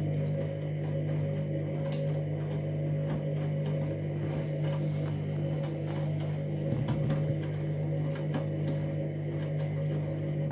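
Candy washing machine running with a steady motor hum and light clicking and rattling, cutting off abruptly near the end.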